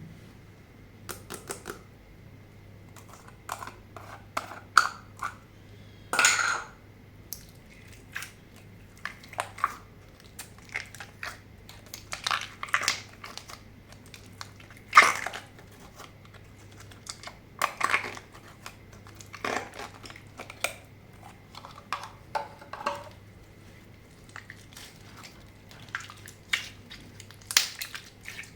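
Slime being squeezed, stretched and mixed by hand, giving irregular sticky clicks, pops and short squelches, with a longer crackle about six seconds in.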